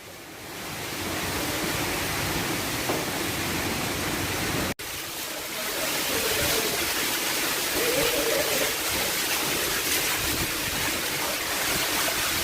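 Heavy rainwater pouring down a flight of stairs: a steady rushing of water, broken by a momentary cut about five seconds in.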